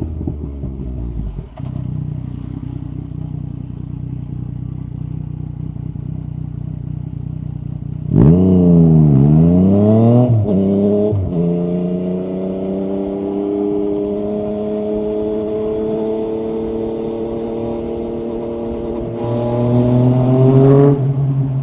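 Yamaha MT-09 SP three-cylinder engine through an Akrapovic carbon exhaust with the dB killer removed, running at steady low revs. About eight seconds in, its pitch sweeps sharply down and back up in a loud burst. It then settles into steady running that climbs into a louder acceleration near the end.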